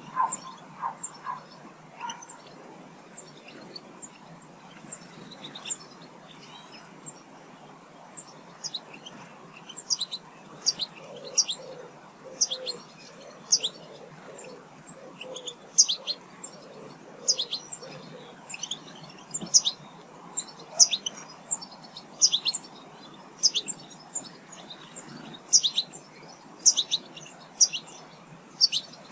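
Small garden birds at feeders chirping with many short, high calls, coming thicker from about eight seconds in. A run of low, soft notes sounds in the middle.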